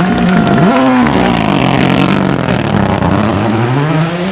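Rally car engine with revs falling and rising: a quick drop and blip about half a second in, engine speed sinking lower through the middle, then revs climbing steadily near the end as the car accelerates again.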